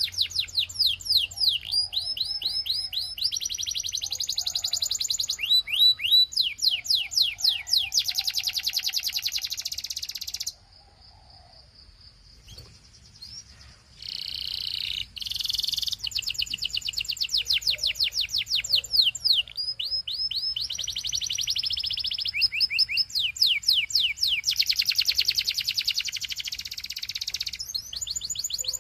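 Belgian canary singing: fast rolls of repeated down-sweeping notes and buzzy trills. About ten seconds in the song drops to a faint single held note for a few seconds, then starts again.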